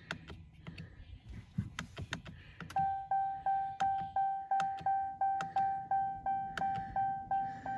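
Ram TRX dashboard warning chime sounding with the ignition in run position: a steady ringing tone pulsing about twice a second, starting about three seconds in after a few soft clicks.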